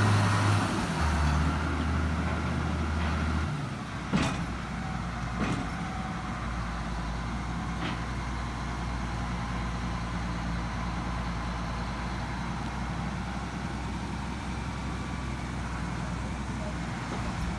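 Heavy diesel engine running, dropping to a lower pitch about a second in and easing off a couple of seconds later, then running on at a steady low rumble. A sharp metallic clank about four seconds in, with lighter knocks a little later.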